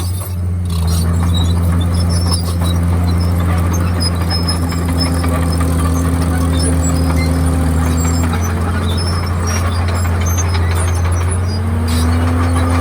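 Komatsu D51PX bulldozer's diesel engine running under load, its note stepping up, dropping back about two-thirds of the way through, then rising again near the end.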